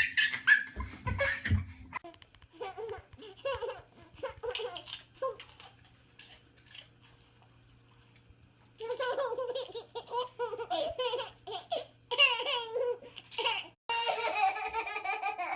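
A young child laughing in repeated bursts: a lighter spell, a short pause, then a long run of hearty laughter. A steady low hum runs underneath.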